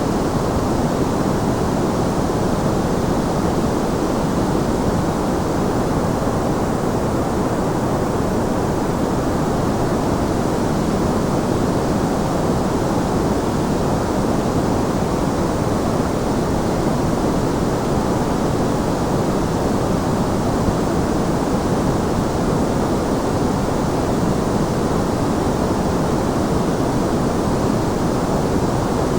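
Steady synthetic white noise for sleep: an even, unchanging hiss, heavier in the low and middle range than at the top.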